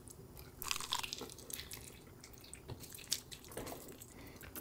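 A person biting into and chewing a sauce-coated fried chicken wing: faint, wet crunching and mouth sounds, busiest about a second in.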